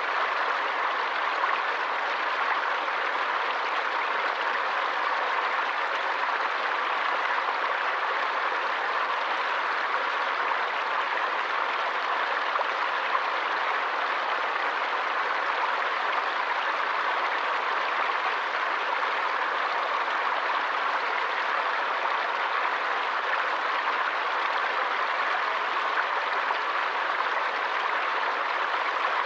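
Running water of a forest stream, a steady, unbroken sound with no separate splashes or other events.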